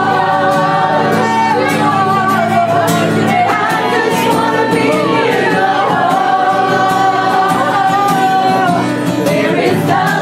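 Worship music with singing over sustained instrumental chords in a large room.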